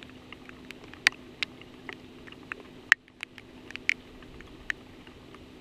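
Rain falling, with single drops landing close by as sharp, irregular ticks, several a second, over a steady low hum.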